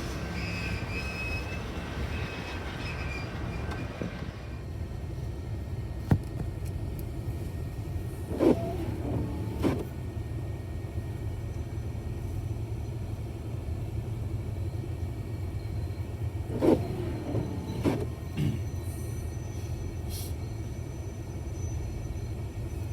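Steady low vehicle rumble, broken twice by a pair of short knocks about a second apart.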